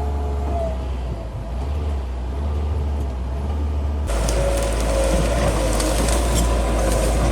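Bulldozer's diesel engine running with a steady low rumble. About four seconds in the sound changes abruptly to a brighter, louder clatter with a steady whine and sharp cracks.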